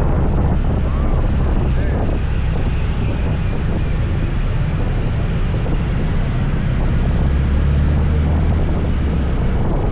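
Scooter running at a steady riding speed: a low engine hum under wind buffeting the microphone.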